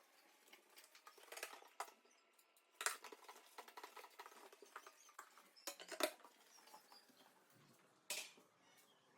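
Faint rustling and light clicks and taps of small household objects being handled by hand, in short irregular bursts, the sharpest about three and six seconds in.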